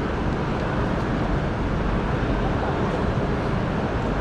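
Steady outdoor background noise: a low, even rumbling din with no distinct events in it.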